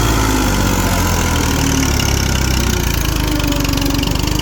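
Diesel farm tractor engine running steadily and loudly, its pitch wavering slightly as it works under load.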